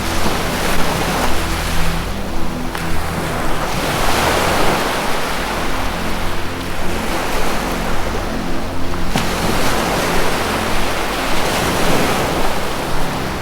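Ocean surf washing in slow swells that rise and fall every few seconds, over sustained low notes of soft ambient music.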